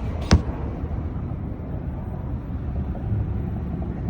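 Wind buffeting the microphone as a steady low rumble, with one sharp click about a third of a second in.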